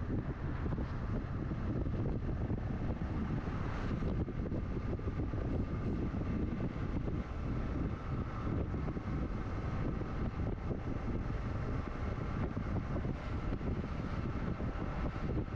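Wind rushing over the microphone of a moving motorcycle, steady and heavy in the low end, with the motorcycle's engine running steadily underneath.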